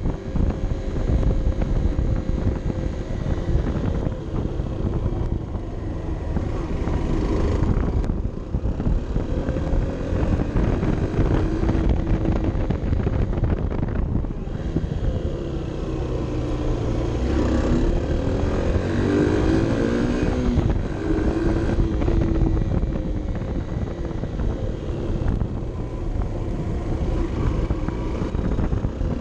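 Honda CB 125 F's 125 cc single-cylinder four-stroke engine, heard from an onboard camera as the bike rides downhill. The engine note rises and falls repeatedly as the rider changes speed, over a steady rush of wind noise.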